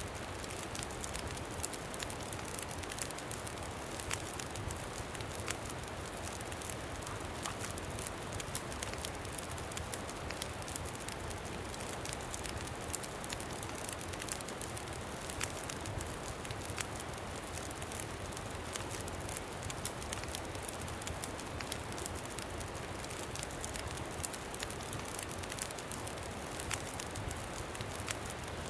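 Campfire crackling, with frequent small sharp pops and ticks over a steady rush of wind.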